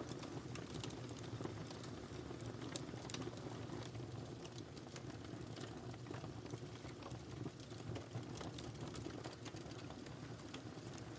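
Wood fire crackling steadily, with frequent small irregular pops and snaps over a low continuous rumble.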